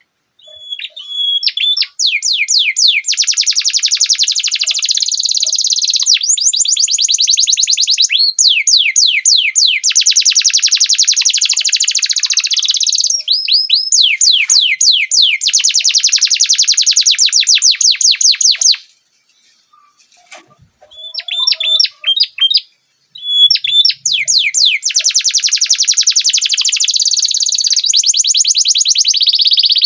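Canary singing long rolling trills of fast repeated notes, with a break of a few seconds about two-thirds of the way through that holds only a few short notes, before the trilling resumes.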